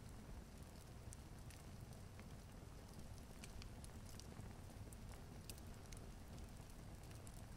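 Log fire crackling: irregular sharp pops and snaps over a low, steady rumble.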